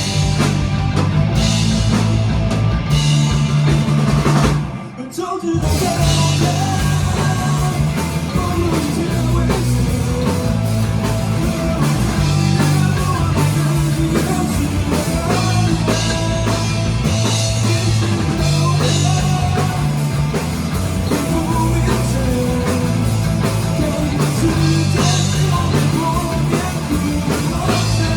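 Live rock band playing with the drum kit prominent. The band drops out for about a second, about five seconds in, then comes straight back in.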